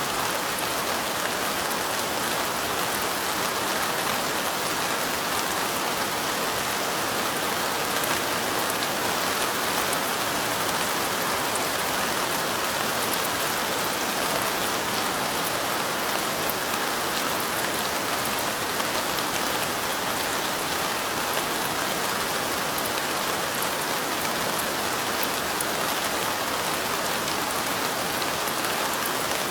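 Steady light rain: an even hiss with fine ticks of individual drops scattered through it.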